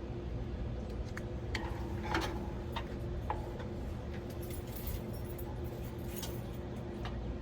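Scattered light metallic clicks and rattles from tools or small parts being handled, over a steady mechanical hum with a constant tone.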